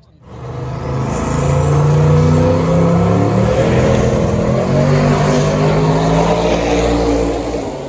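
Drag race car's engine starting up suddenly and running loud at high revs, its pitch stepping up and down, then tailing off near the end.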